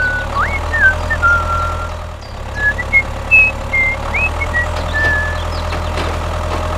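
A small electric motor of a toy vehicle hums steadily, with short, high, whistle-like chirps sliding up and down over it.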